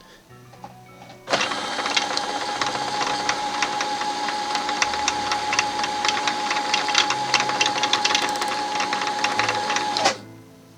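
Brother CS-6000i sewing machine winding a bobbin: the motor starts about a second in and runs at a steady speed with a constant whine and rapid ticking, then stops abruptly near the end.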